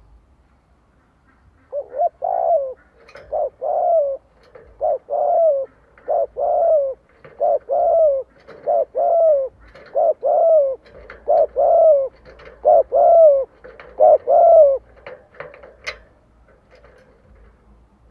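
Spotted dove cooing: a quick run of about a dozen short, low double coos, one roughly every second and a half, stopping a few seconds before the end. This is the decoy's rapid 'gù' bowing coo, used to provoke wild doves to come and fight.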